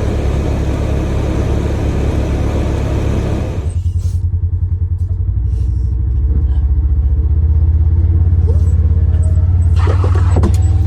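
A Polaris Ranger Crew 1000 XP side-by-side's engine running with a steady low drone. A broad rush of driving noise over it cuts off suddenly about four seconds in. The engine drone then grows louder about six seconds in.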